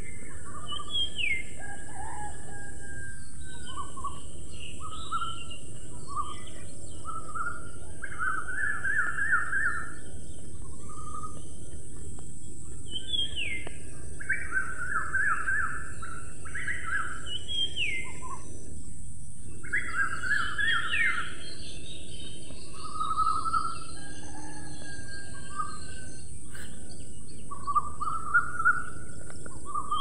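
Songbirds calling over a steady background hiss: short whistled notes that slide down in pitch, repeated every few seconds, mixed with quick trilled phrases.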